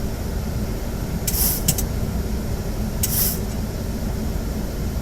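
Steady rush of airflow and engine noise inside a Boeing 737 cockpit on final approach, with two short high hisses, one about a second in and another about three seconds in.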